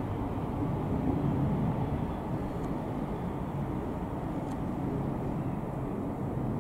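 Steady low rumble of a GWR Class 800 intercity train approaching on the line through the station.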